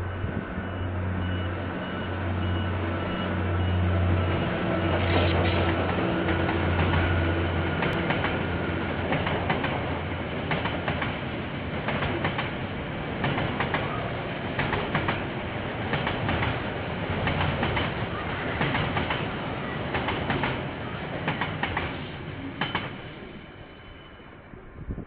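A KiwiRail train passing, heard through a security camera's microphone. For the first several seconds the diesel locomotive's engine drones with a low throb that swells about once a second. Then the wagons rattle past with an irregular clickety-clack over the rail joints, fading away near the end.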